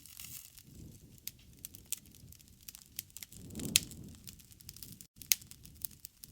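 Wood fire crackling with frequent sharp pops over a low rumble of flame. The rumble swells about three and a half seconds in, where the loudest pop comes, and all sound cuts out for a split second about five seconds in.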